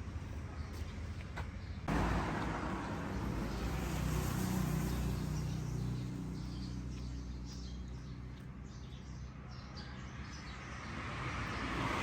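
Motor vehicle engines in passing traffic: one vehicle goes by after about two seconds, and another approaches near the end. A few sharp clicks come at the start.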